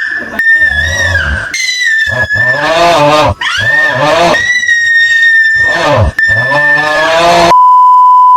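A loud edited-in sound effect: drawn-out, voice-like wails that bend in pitch over a steady high tone. It is cut off about seven and a half seconds in by a loud steady censor bleep lasting about a second.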